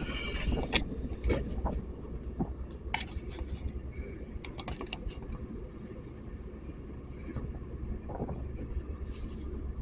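A horn with many even tones cuts off about a second in, followed by a steady low rumble with irregular sharp clicks and knocks.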